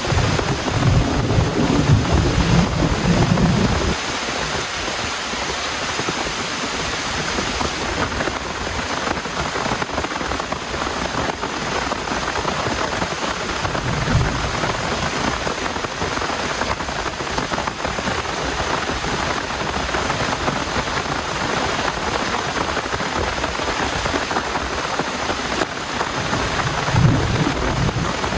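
Heavy rain falling steadily, with low rumbles of thunder during the first few seconds, briefly about halfway through, and again near the end.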